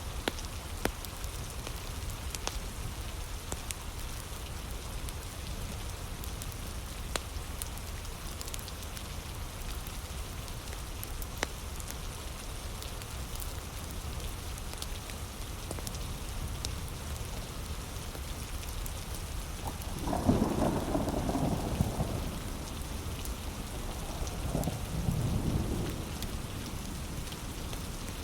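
Steady heavy rain with scattered sharp crackling pops from a wood fire. About two-thirds of the way in, a low thunder rumble swells twice.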